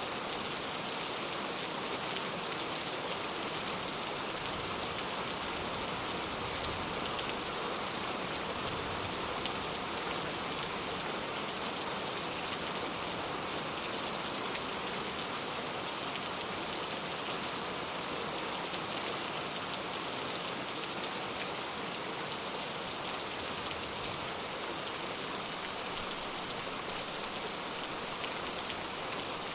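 Steady rainfall: a dense, even hiss of raindrops with no thunder.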